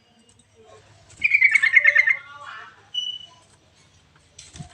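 Trucukan bulbul song: a phrase of rapid bubbling notes about a second long, slightly falling in pitch, starting about a second in, followed by a short thin whistle.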